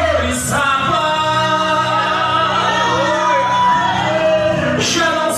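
Christian song: a singer holds long, bending notes over instrumental accompaniment.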